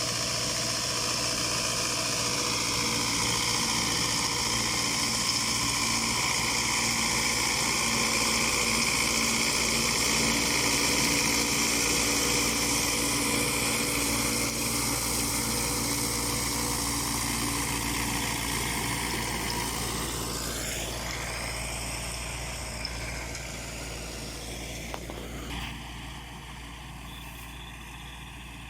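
MTZ-82 tractor's four-cylinder diesel engine running steadily while working a KRN-2.1 rotary mower. Over the last several seconds it fades as the tractor moves away.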